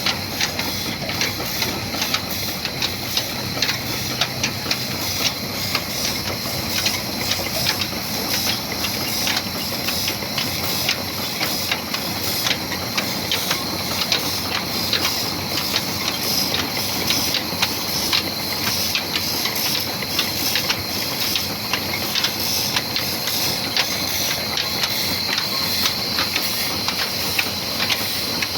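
Old 22 hp slow-speed black diesel engine running: a steady hiss laced with a rapid, irregular clatter of clicks.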